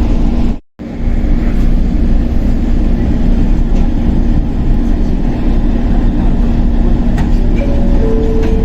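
Inside a JNR 115-series electric motor car (KuMoHa 115) under way: a steady rumble of wheels and traction motors with a constant low hum. The sound cuts out briefly about half a second in, and a few light clicks come through later.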